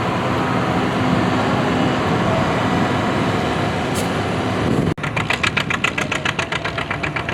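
Vintage farm tractor engine running steadily. About five seconds in, the sound cuts to a close engine with a strong, even exhaust beat of several pulses a second.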